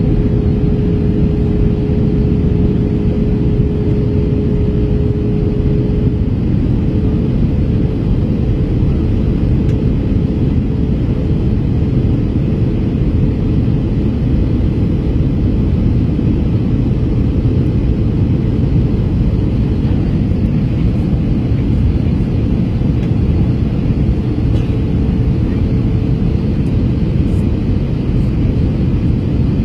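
Airbus A321 passenger cabin noise on approach: a steady, loud rumble of the engines and airflow, with a faint steady hum that fades about six seconds in.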